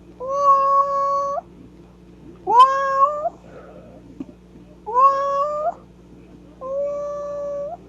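Kitten meowing four times, about once every two seconds. Each meow lasts about a second, sliding up at the start and then holding a steady pitch.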